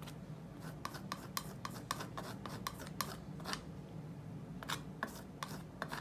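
A painting tool rubbing and scraping oil paint across paper in quick short strokes, about three a second, pausing around the middle and starting again near the end.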